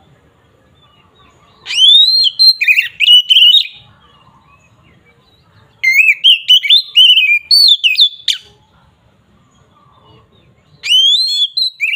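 Oriental magpie-robin (kacer) singing in loud, clear 'ngeplong' style: three phrases of quick whistled notes that sweep up and down, separated by short pauses of about two seconds.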